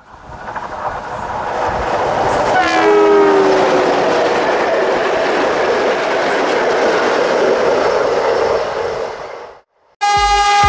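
A train rushing past with a rolling roar. About three seconds in its two-tone horn sounds and drops in pitch as it goes by. The noise fades out near the end, and after a moment's silence music with a steady beat starts.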